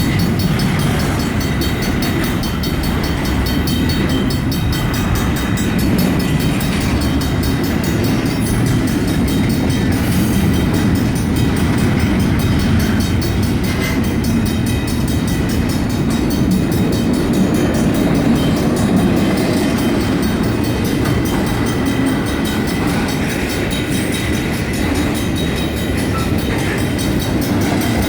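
Double-stack intermodal freight train's cars rolling past on the rails in a steady low rumble with clickety-clack from the wheels, while the grade crossing's mechanical bells keep ringing.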